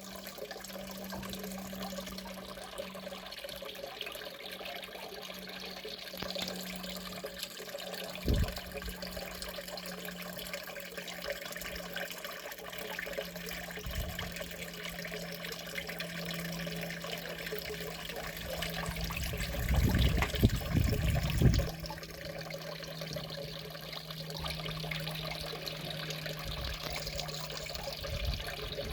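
Steady trickling, running-water noise with a constant low hum under it. A few dull low thumps break in, with a short cluster of them about twenty seconds in.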